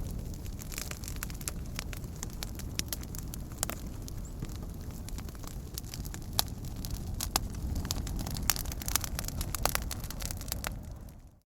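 Wood fire burning with a steady low rumble and frequent sharp crackles and pops, a few of them louder than the rest. The sound fades out near the end.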